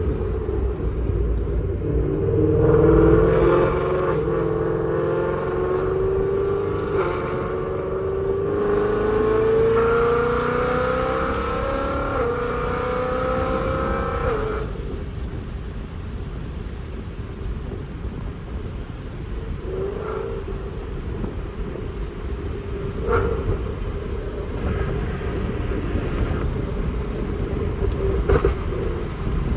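Ford Mustang GT's 5.0 V8 through long-tube headers and Corsa Xtreme exhaust, pulling hard with its pitch climbing in steps for about twelve seconds. It then lifts off suddenly and settles to a steady cruise, with a few brief blips of throttle near the end.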